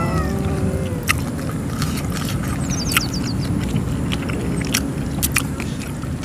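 Close-up chewing while eating, with a few sharp crunches spread through it.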